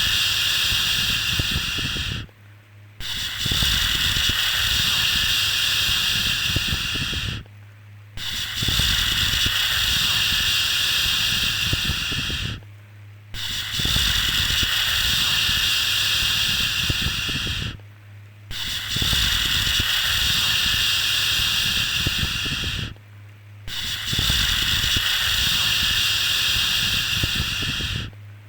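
A soothing 'shhh' shushing sound for lulling a baby to sleep. Each shush is held about four and a half seconds, with a short pause before the next one, so it repeats about every five seconds.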